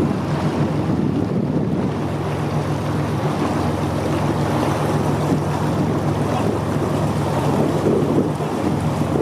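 Motorboat engine running at a steady speed, with wind buffeting the microphone and water rushing past.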